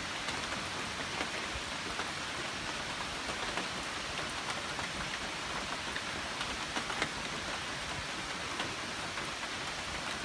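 Steady rain falling on the leaves and branches of a woodland, with scattered individual drops ticking through it.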